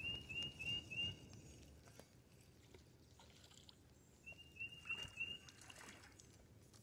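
A bird calling: a run of four short, clear whistled notes at the start, repeated about four seconds later.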